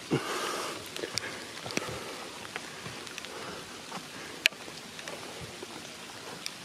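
Steady rain falling, with scattered drops ticking. A brief louder sound comes right at the start, and a single sharp click about four and a half seconds in.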